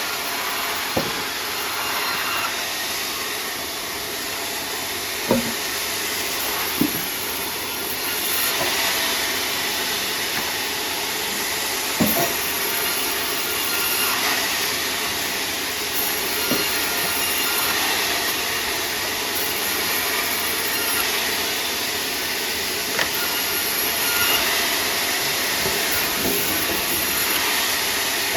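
Sawmill saw running and cutting timber: a steady, noisy whir, with a few sharp knocks along the way.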